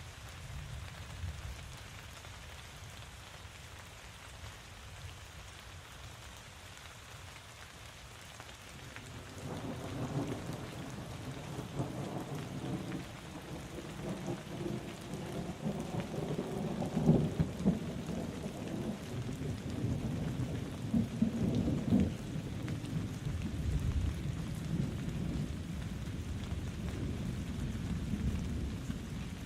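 Steady rainfall with a long roll of thunder that sets in about a third of the way through, swells in the middle and slowly rumbles away.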